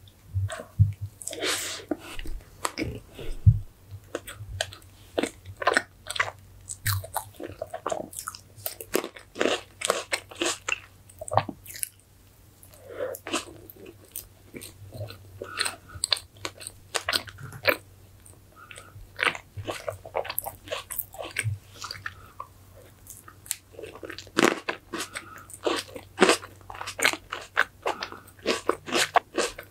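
Close-miked chewing of a mouthful of strawberry fresh cream cake: many quick, irregular mouth clicks and smacks. A faint steady low hum lies underneath.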